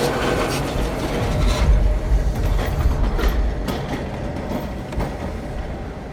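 Keihan Keishin Line train running on street track alongside a moving car: a steady low rumble with occasional wheel clicks, mixed with the car's road noise, easing off slightly toward the end.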